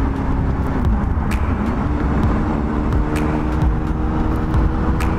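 Motorcycle engine running at speed under heavy wind rush on the helmet microphone. The engine note drops about a second in as the bike is slowed, then rises and holds steady from about two seconds in.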